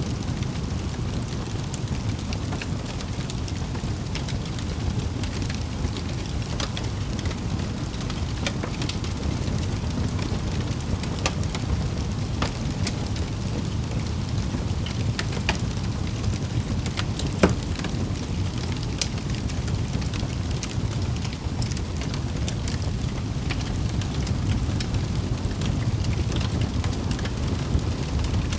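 Wood fire burning in a fireplace: a steady low rumble of flames with scattered crackles and pops, one sharper pop about two-thirds of the way through.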